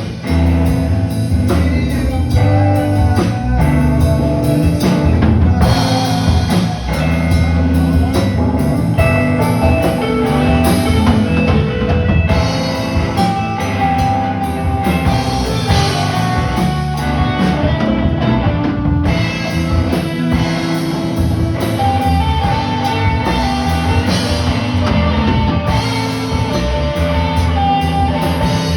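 Live band music with a drum kit and guitar, played loud and without a break.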